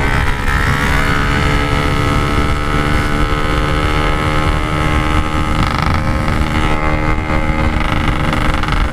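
Yamaha RX-King's two-stroke single-cylinder engine running at a fairly steady speed while riding, its pitch rising slightly near the start and again near the end, with wind on the microphone.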